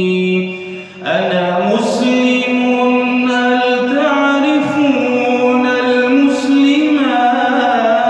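Male voice singing an Arabic nasheed in long, drawn-out notes that bend slowly in pitch. The singing dips briefly about a second in, then carries on.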